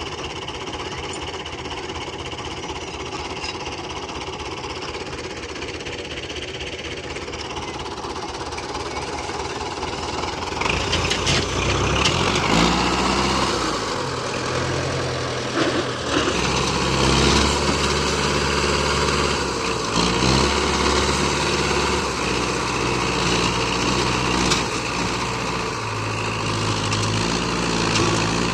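Belarus 510 tractor engine running. It gets louder about ten seconds in, with a deeper pitch that shifts up and down in steps.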